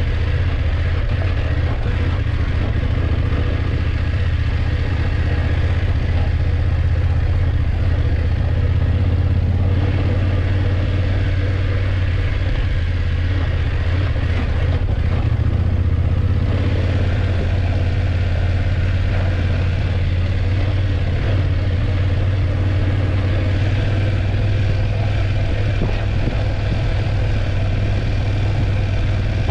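BMW F850GS parallel-twin engine running steadily under way, with a constant low hum.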